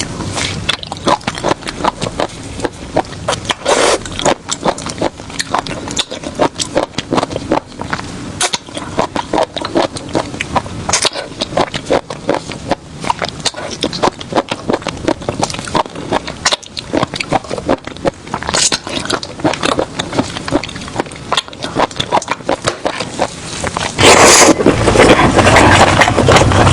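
Seafood being handled and eaten: a dense run of sharp cracks, clicks and scrapes of shells and utensils. It gets louder and noisier near the end.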